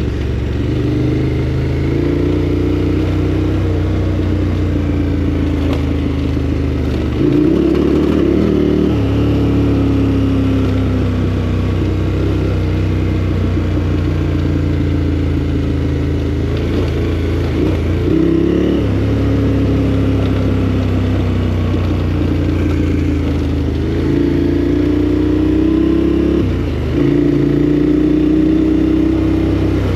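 KTM 1290 Super Adventure R's V-twin engine running under way on a winding road. The revs rise and fall, with a few abrupt pitch changes.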